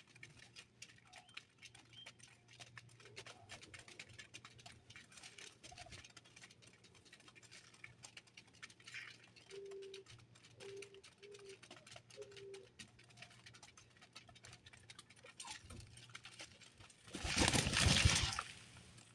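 Birds at a seed feeder: many small scattered clicks and taps from pecking and hopping, with four short low notes about halfway through. Near the end comes a loud rushing burst lasting about a second.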